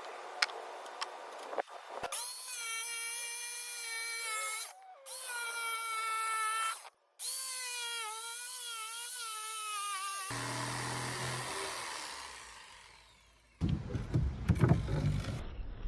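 Cordless drill running in three spurts, its motor whine rising and falling in pitch with the trigger and stopping briefly twice. Near the end, loud low knocking and rumbling noise follows.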